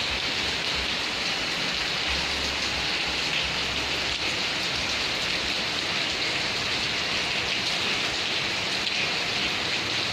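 Steady, heavy rain falling without a break.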